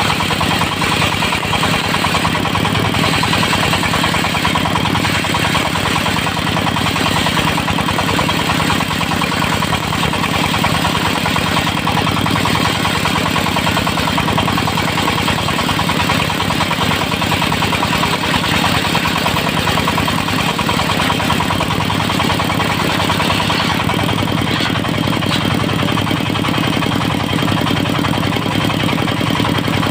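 Engine-driven portable circular sawmill running steadily, its engine and spinning blade making a continuous loud drone with no breaks.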